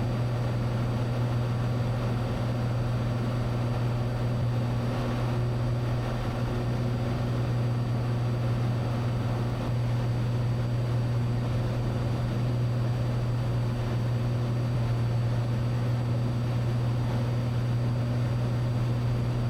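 Cessna 182 engine and propeller heard from inside the cabin, a steady low drone in cruise flight.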